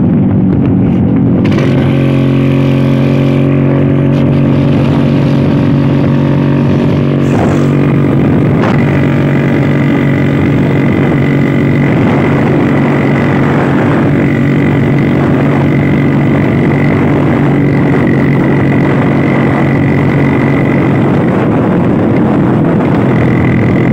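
Vintage Vespa scooter's two-stroke engine running steadily while riding at cruising speed, its pitch shifting about a second and a half in, with a thin steady whine on top.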